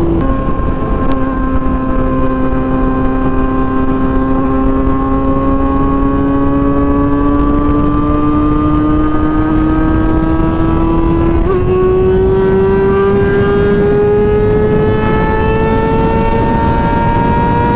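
Motorcycle engine running at steady speed while riding, its note slowly rising in pitch with a sudden step up about two-thirds of the way through, over heavy wind and road rumble.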